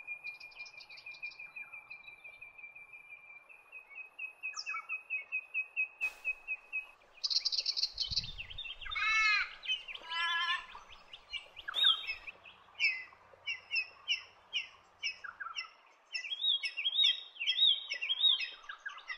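Wild birds calling: first a fast, even run of repeated high notes for about six seconds, then several birds together with repeated chirps and short rising-and-falling whistles.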